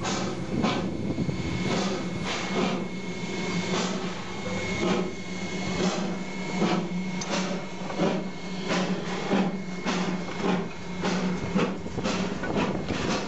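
Oil-burning narrow-gauge steam locomotive running along the line. Sharp beats come a little under twice a second over a steady hum.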